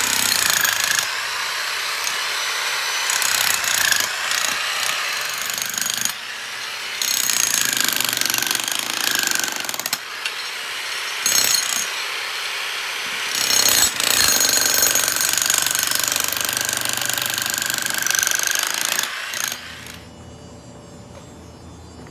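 A power tool running hard in long spells with a high whine and brief pauses, stopping about 20 seconds in.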